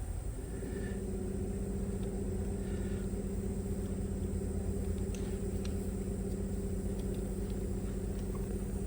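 A machine motor starts about half a second in and runs with a steady, even hum.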